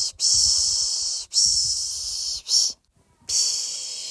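A person shushing a baby to sleep with long, repeated "shh" hisses of about a second each, with brief breaks between them and one short "shh" just past the middle.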